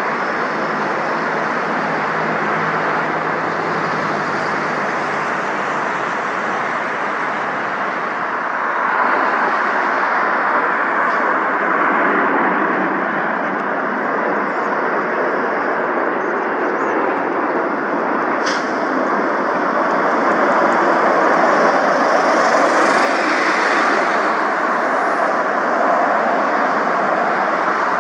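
Jet airliner engines running, heard as a steady rushing noise that grows louder about a third of the way in and swells again later on.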